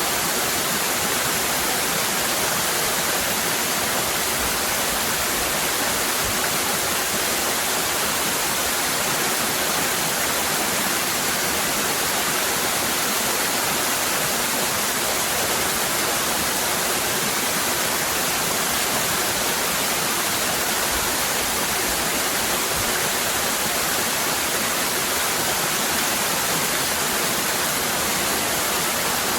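Waterfall cascading: a steady, unbroken rush of falling water, with most of its energy in the hiss.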